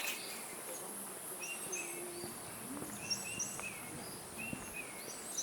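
Forest birds calling, a short phrase of clipped, down-slurred notes repeated about every second and a half, over a steady high insect hiss.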